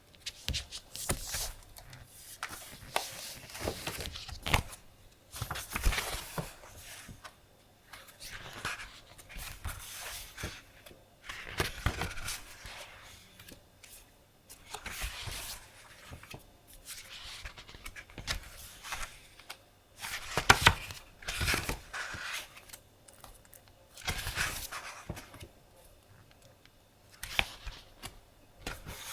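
Sheets of decorative craft paper and their packaging being handled, making irregular bursts of paper rustling, with the loudest bursts about two-thirds of the way through.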